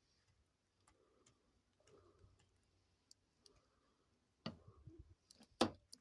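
Cockatiel cracking and husking seeds with its beak: faint, scattered small clicks, then two louder sharp knocks near the end.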